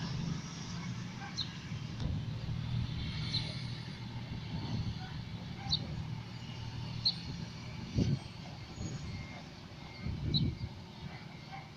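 Scania truck's diesel engine idling with a steady low hum. Short high chirps recur every second or so, and there are two dull knocks near the end.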